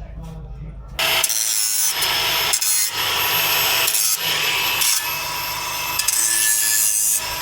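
Angle grinder cutting and grinding at the quad's metal roll-cage frame, starting about a second in. It runs as a loud, harsh rasp, with short breaks where the tool is eased off and brought back to the metal.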